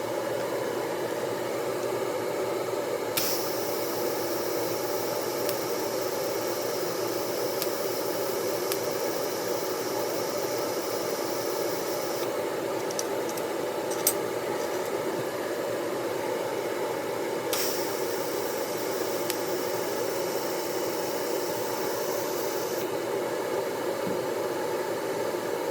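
Welding arc hissing and sizzling on a mini bike's broken exhaust bracket. A steady hiss throughout, with a brighter sizzle that comes in about three seconds in, drops out around twelve seconds, and returns from about seventeen to twenty-three seconds.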